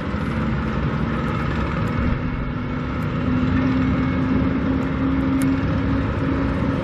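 A motor vehicle engine running amid steady street noise; its low hum grows louder about three seconds in and eases off near six seconds.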